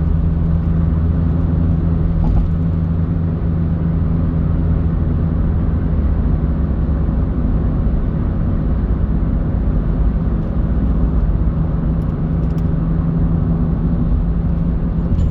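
Car driving: a steady low engine and road rumble that holds even throughout.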